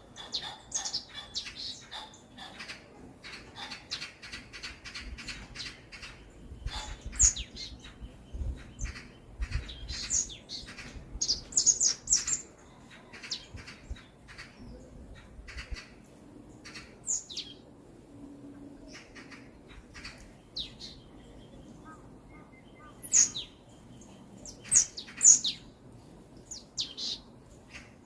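Songbirds chirping: many short, high calls, the loudest around a quarter of the way in and again near the end, over a faint low background rumble.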